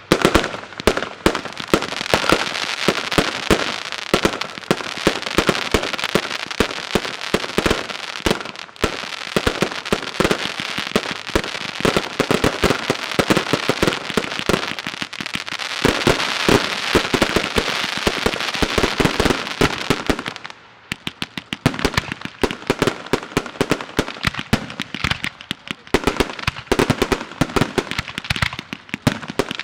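Fireworks display: aerial shells bursting in rapid succession under a dense continuous crackle for about the first two-thirds. About twenty seconds in the crackle drops away and separate bangs follow.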